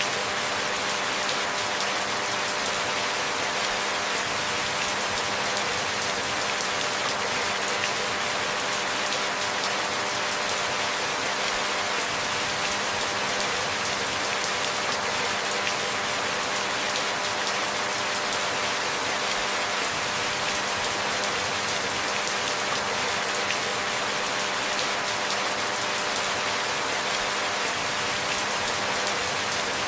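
Steady rain falling: an even, unchanging hiss, with a faint steady hum underneath.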